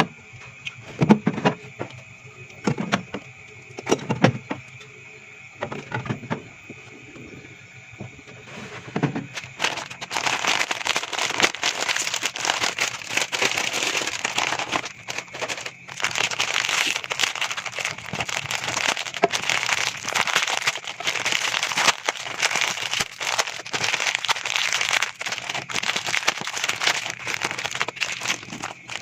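A few soft thuds of items being set down, then, from about nine seconds in, continuous crackling and crinkling of plastic packaging being handled while the fridge is stocked.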